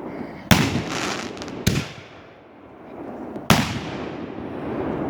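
Fireworks going off: three loud bangs, about half a second in, at just under two seconds and at about three and a half seconds, each fading away over the next moment.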